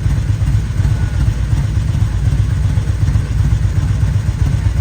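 Motorcycle engine rumbling steadily at a low, even pitch.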